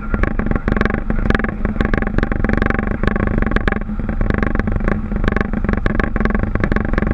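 Steady engine and airflow noise inside a Boeing 737 cockpit, with a constant hum and frequent small knocks and rattles.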